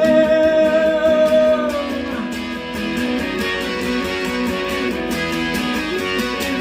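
Guitar strumming the song's closing chords at a steady pace, with a long held note that dies away about two seconds in.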